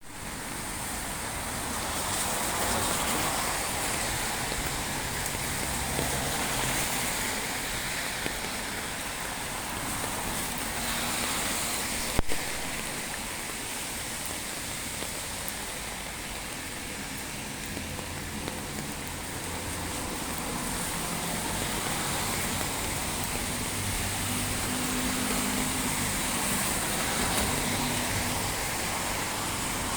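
Heavy rain falling, a steady hiss, with low vehicle noise from passing road traffic mixed in. A single sharp click about twelve seconds in.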